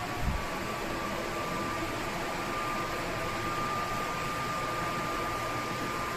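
60 cm wall-mounted fan running: a steady rush of air with a faint motor whine that rises slightly in pitch, then holds. A brief knock just after the start.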